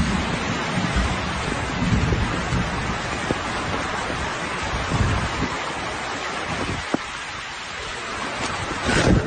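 Thunderstorm: a steady hiss of heavy rain and wind, with gusts buffeting the microphone and uneven low rumbling underneath.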